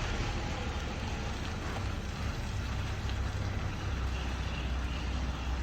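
Ashok Leyland Viking bus engine running with a steady low drone.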